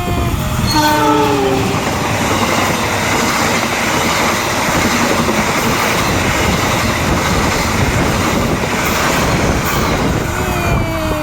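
A train passing close by. Its horn sounds at the start, the pitch dropping as it goes by in the first couple of seconds, then the wheels on the rails make a steady, loud rumble and clatter. Another falling tone comes near the end.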